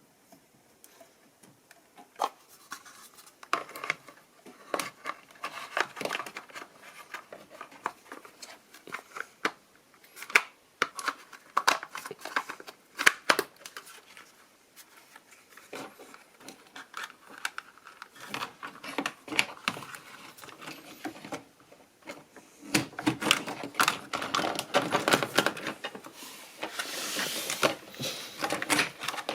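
Irregular clicks, taps and scraping of plastic parts being handled and fitted together while the washing machine's recirculation pump assembly is put back together, turning into a denser stretch of rubbing and scraping near the end.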